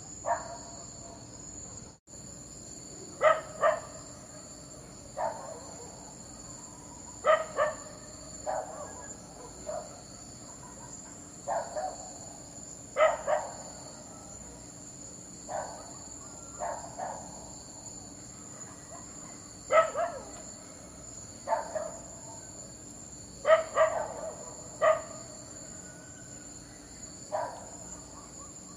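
A dog barking in short, sharp barks, singly and in quick pairs, every second or few seconds at an irregular pace.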